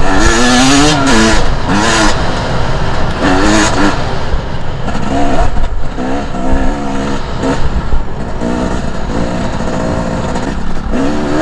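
Two-stroke enduro dirt bike engine revving hard and rising and falling in pitch again and again as the throttle opens and shuts and the gears change, over a constant low rumble.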